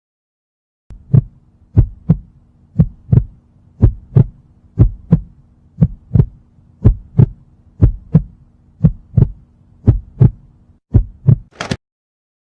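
Heartbeat sound effect: a steady lub-dub double thump about once a second over a faint low hum, ending with a brief high hiss near the end.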